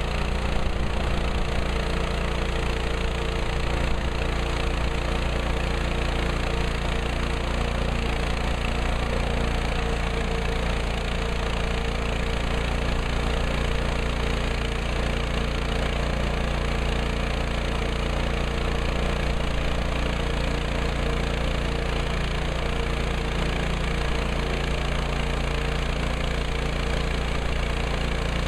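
Woodland Mills HM130 Max portable bandsaw mill's engine running steadily at an even pitch.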